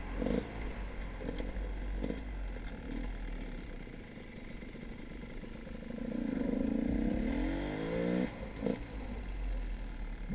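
A motor vehicle engine running over a steady low rumble, its pitch rising and then falling briefly about six seconds in, with a few light knocks.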